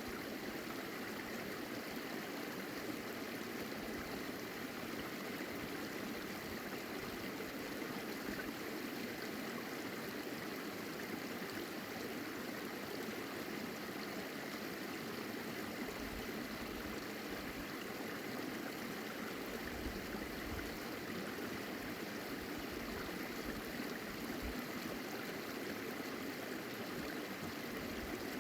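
A stream running: a steady, unbroken rush of flowing water.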